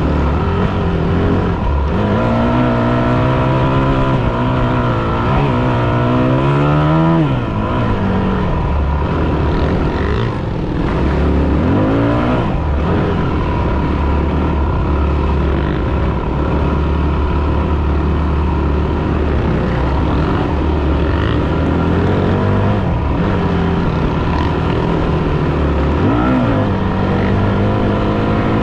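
Yamaha WR250F's single-cylinder four-stroke engine under way, the revs climbing for several seconds and then dropping sharply about seven seconds in, before running fairly steadily with smaller rises and falls in engine speed.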